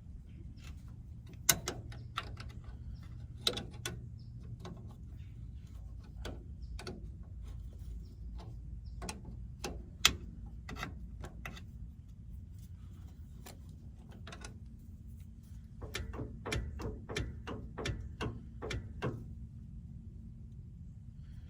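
Scattered metal clicks and taps of wrenches working the adjustment and jam nuts on a truck's clutch linkage rod while its free play is being set, with a quicker run of clicks late on, over a low steady hum.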